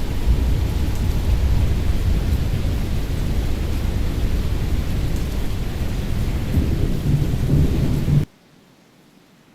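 Thunderstorm: a continuous low rumble with rain noise over it, cutting off abruptly about eight seconds in to a much quieter background.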